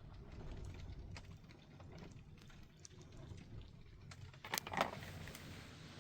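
Wind rumbling on the microphone, with scattered light ticks of rain or handling, and two sharp knocks about four and a half seconds in.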